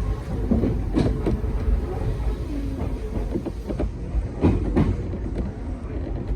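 Hakone Tozan Railway train running: a steady low rumble, with sharp clicks of the wheels over the rail joints, once about a second in and twice near four and a half seconds.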